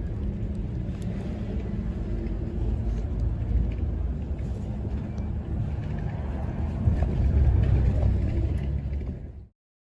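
Low, steady rumble of a moving vehicle, swelling a little about seven seconds in, then cut off abruptly near the end.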